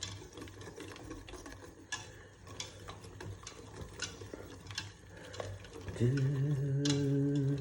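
A spoon stirring in a pot of thickening soup, with scattered light clicks and scrapes against the pot. About six seconds in, a man's voice comes in holding one steady note.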